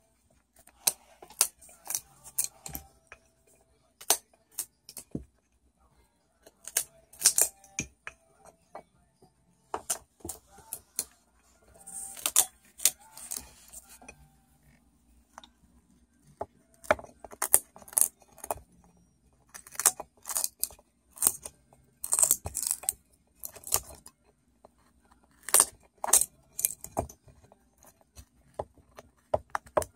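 Cockatoo busy handling and working at objects: irregular clusters of sharp clicks, clinks and cracks, with brief scratchy, tearing-like stretches about 12 and 22 seconds in.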